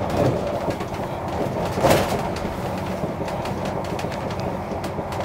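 Cabin running noise of a Class 197 diesel multiple unit at speed: a steady rumble of wheels on rail with a low engine hum, occasional faint clicks, and a brief louder swell about two seconds in.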